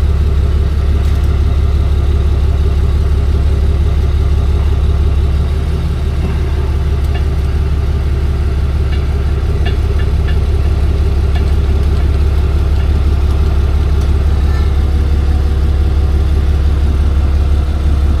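Tow truck engine idling steadily with a deep, even hum. A few faint metallic clicks come partway through, from tools on the freshly refitted driveshaft bolts.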